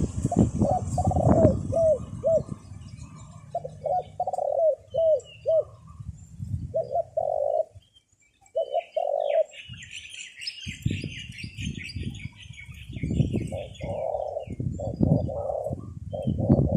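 Doves cooing in runs of short repeated notes, with strong wind buffeting the microphone in low rumbles. Partway through, a small bird chirps rapidly for a couple of seconds.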